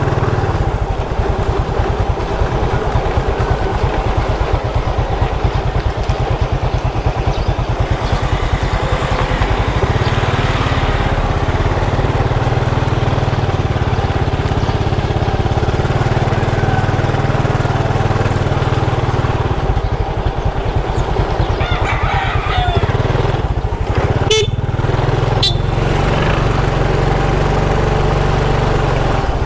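Motorcycle running steadily on the move, with a constant low rumble. Near the end, two brief sharp sounds come about a second apart.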